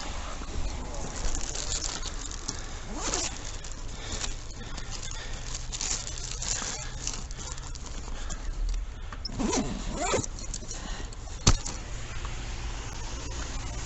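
A vehicle engine idling steadily with a low hum, with a single sharp knock about two-thirds of the way through.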